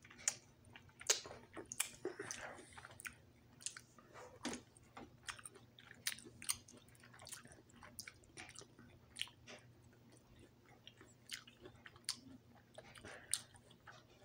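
A person chewing orange segments close to the microphone: irregular mouth clicks and smacks as the fruit is bitten and chewed.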